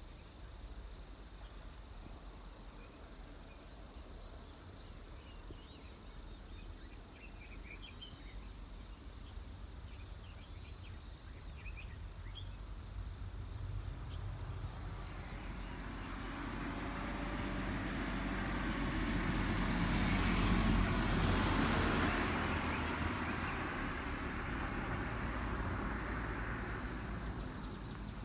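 A road vehicle passing by outdoors: its noise swells over several seconds, peaks about two-thirds of the way through and slowly fades, over a steady low rumble. A few faint bird chirps come in the first half.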